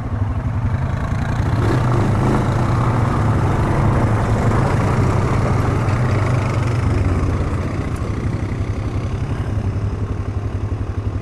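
A quad's engine running as the ATV pulls away and rides on, a steady low hum with fast even pulsing. It builds over the first couple of seconds and eases slightly about seven seconds in.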